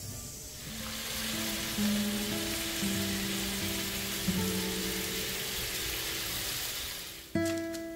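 Chicken and vegetable skewers frying in a pan, a steady sizzle that starts about half a second in and cuts off sharply near the end. Soft background music plays underneath.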